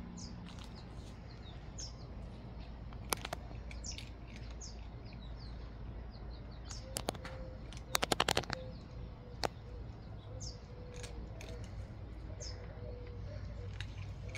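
Small birds chirping, with short high notes scattered throughout over a steady low background rumble. A single sharp click comes about three seconds in, and a quick run of sharp clicks around the middle is the loudest sound.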